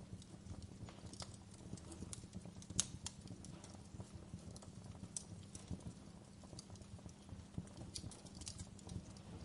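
Wood fire crackling, with irregular sharp pops over a low, steady rumble; the loudest pop comes a little under three seconds in.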